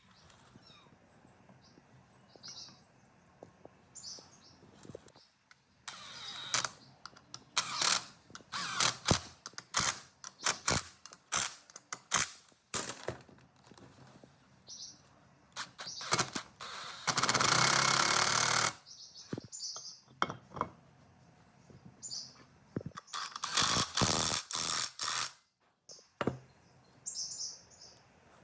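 Workshop handling sounds from restoring a generator: runs of sharp clicks and knocks of parts and tools, and a steady hissing noise for about a second and a half midway. Birds chirp faintly in the background.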